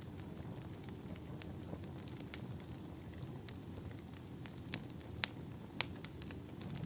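Wood fire crackling: a steady low rush of flames with sharp pops at irregular intervals, the loudest two a little past halfway.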